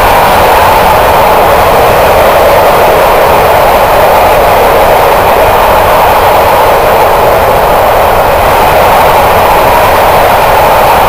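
Covered double-deck car-transporter wagons of a freight train rolling past close by: a loud, steady noise of wheels on rails.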